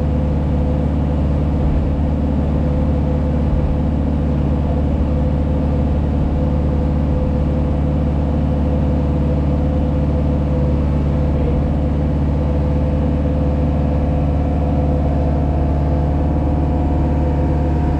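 JCB Pothole Pro's diesel engine running at a steady speed, heard from inside the machine's cab: an even, unchanging low hum.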